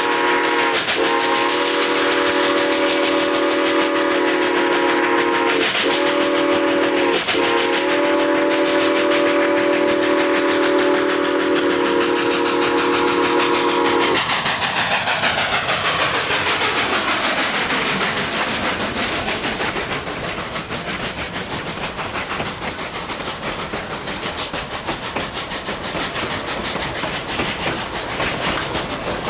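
Narrow-gauge steam locomotive's chime whistle sounding a long, loud, many-note blast, broken by three brief gaps, that stops about halfway through. The train then rolls past, its wheels clattering over the rail joints.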